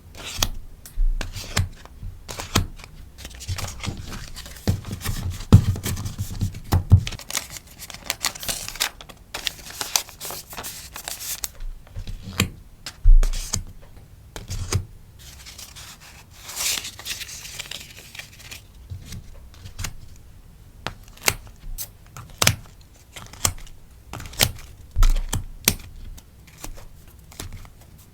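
Sticker packing materials being handled: plastic sleeves and paper rustling, crinkling and tearing, with many sharp taps and clicks. There are longer stretches of rustling in the first half and again past the middle, and a few soft thumps.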